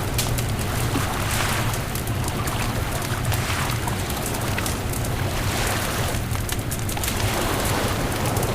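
Beach bonfire crackling with many small sharp pops, over a steady low rumble of surf and wind.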